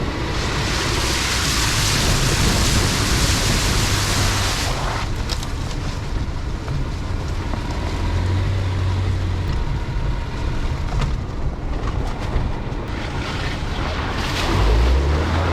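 Pickup truck driving on a rough dirt track: steady engine rumble with tyre and road noise. A louder rushing hiss fills the first five seconds, then eases off.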